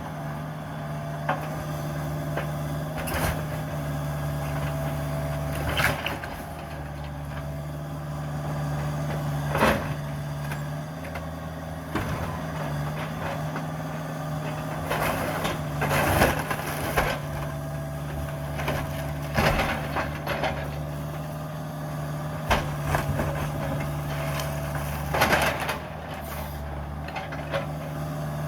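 Cat 305 mini excavator's diesel engine running steadily while the machine breaks up a wooden house, with sharp cracks and crunches of splintering wood every few seconds.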